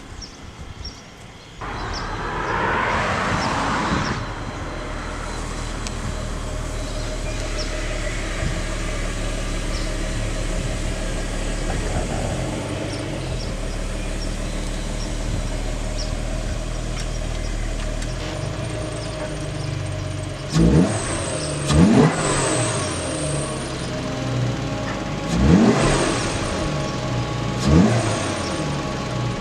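Car engine running steadily, then revved in four short blips in the second half.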